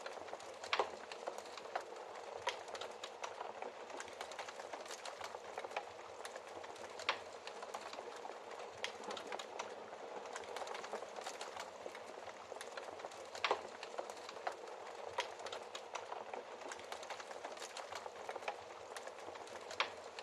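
Wood fire crackling in a fireplace: a steady hiss of burning with frequent small crackles and a few louder pops, the loudest near the start, about 7 and 13 seconds in, and near the end.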